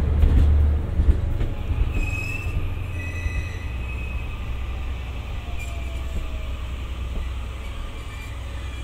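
The E001 Train Suite Shikishima, running on diesel power, rolls slowly past along the platform. A heavy low diesel rumble is loudest for about the first second, then drops back to a steady rumble as the cars go by. Brief high-pitched wheel squeals come about two to three seconds in.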